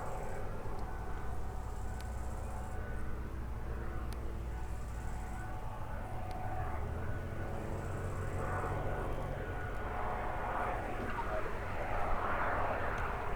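Light propeller aircraft's piston engine running steadily at low power, a low droning hum with a faint steady whine above it, swelling slightly near the end.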